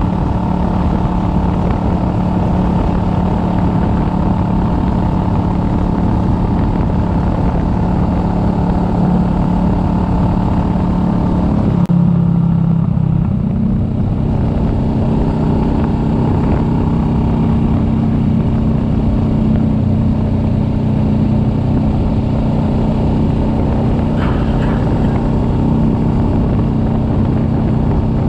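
Kawasaki Vulcan S 650's parallel-twin engine running steadily under way. About twelve seconds in the engine note changes briefly and then settles at a slightly different steady pitch.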